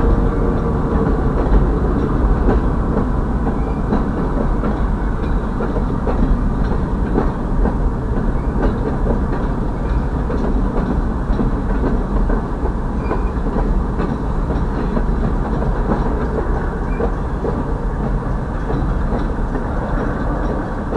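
Freight train cars (boxcars, a tank car and empty intermodal well cars) rolling steadily past over a road grade crossing: a continuous low rumble with the clickety-clack of wheels over rail joints. Heard muffled from inside a vehicle waiting at the crossing.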